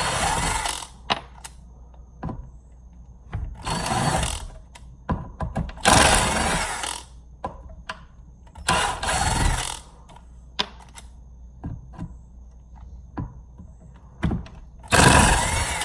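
Ryobi cordless impact driver driving drywall screws in five runs of about a second each, with small clicks and knocks of handling in between. The screws go in without trouble.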